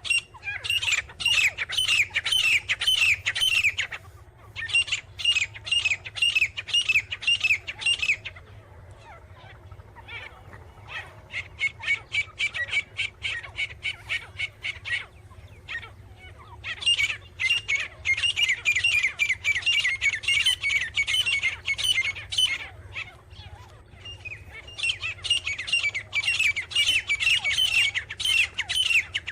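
Grey francolin calling in loud bouts of rapid, repeated shrill notes, about four a second, with short pauses between bouts; the bout about halfway through is fainter.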